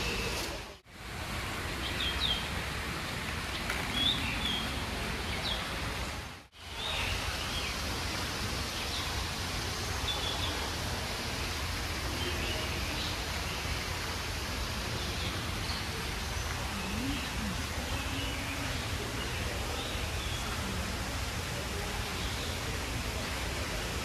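Small birds chirping many times with short, high calls over a steady hiss of background noise. The sound drops out briefly twice in the first seven seconds.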